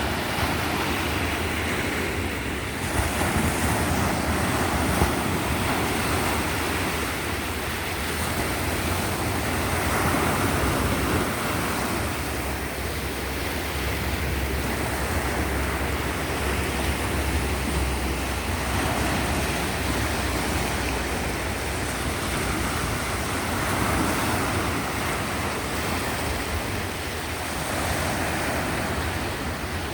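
Sea surf: waves breaking and washing onto the shore in a continuous noise that swells every several seconds.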